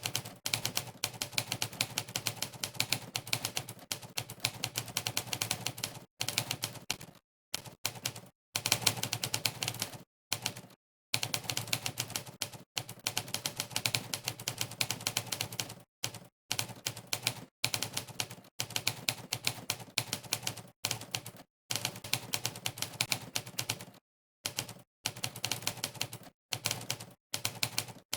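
Typewriter keystroke sound effects from the Monkeytype typing site, one click per typed key, coming in fast runs broken by frequent short pauses.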